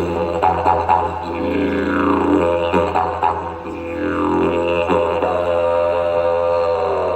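Didgeridoo drone, with howling calls blown through it that fall in pitch, twice. This is a didgeridoo imitation of a dingo howl.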